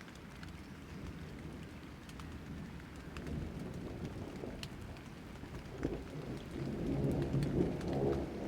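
Rain falling, with scattered drop clicks over a low rumble of thunder that swells louder over the last two seconds.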